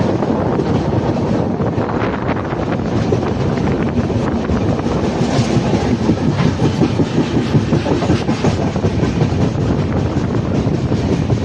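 Passenger train running at speed, its wheels clattering rapidly over the rail joints, the clacks densest a little past the middle.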